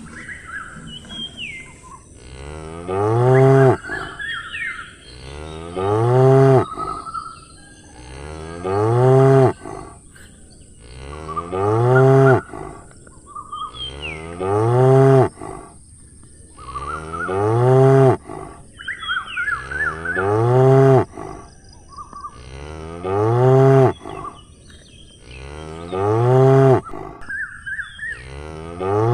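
Cow mooing, nine moos of the same shape about every three seconds, each about a second long, with birds chirping in the gaps.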